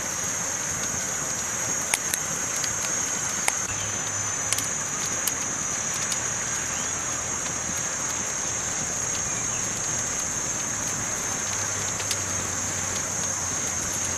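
Campfire burning: a steady hiss with a few sharp crackles and pops scattered through it, the loudest about two seconds in.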